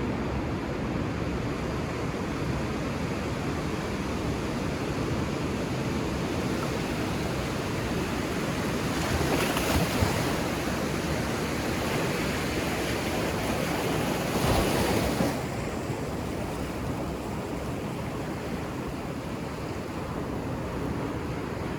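Ocean surf on a beach: a steady wash of waves, with two waves breaking louder about nine and fourteen seconds in.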